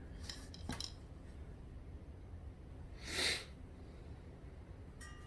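Small metal parts of a riding mower's throttle linkage clinking as they are unhooked and handled, with a short rushing noise about three seconds in.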